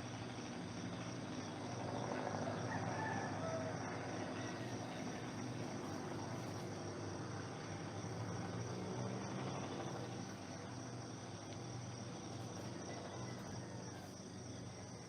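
Steady outdoor chorus of insects.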